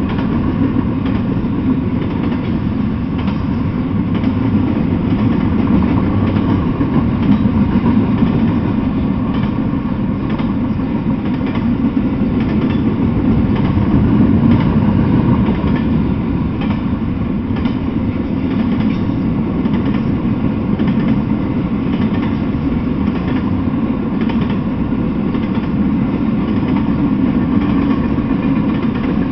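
Intermodal freight train passing, double-stack container cars then trailer-on-flatcar cars: a steady, loud rumble of wheels on the rails.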